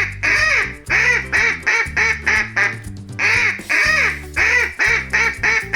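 Duck quacking in two quick runs of short quacks, with a brief pause about halfway, over cheerful background music.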